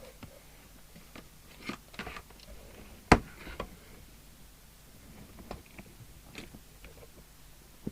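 Clicks, knocks and light scrapes from handling cables and connectors on a workbench, with one sharp, loud click about three seconds in, over a faint steady hum.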